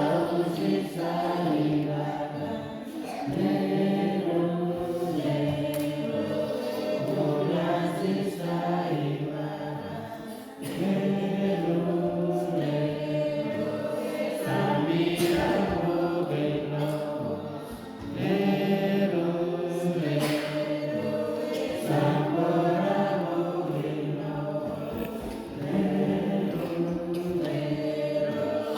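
A choir of many voices singing a Christian praise song in harmony, in sung phrases with short breaks between them.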